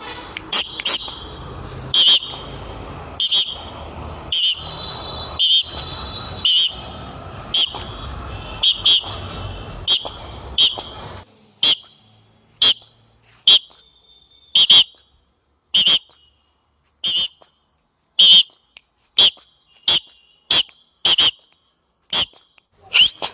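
A lovebird calling with repeated short, high-pitched shrill chirps, about one a second. A steady background noise drops away about halfway through.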